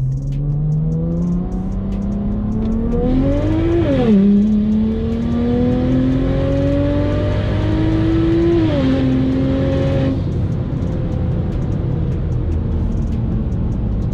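BMW 335i N54 inline-six with a single-turbo conversion, heard from inside the cabin, accelerating hard. The revs climb, fall at an upshift about four seconds in, climb again and fall at a second upshift near nine seconds. About ten seconds in the throttle comes off and it settles to a steady cruising drone.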